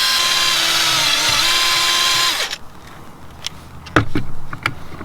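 Drill spinning a buffing wheel to polish gel coat, its motor whine steady, dipping briefly in pitch about a second in, then winding down and stopping about halfway through. A few sharp knocks follow.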